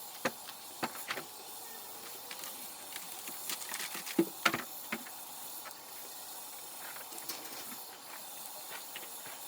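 Wood campfire crackling, with a steady hiss and scattered sharp pops, a quick run of them about halfway through.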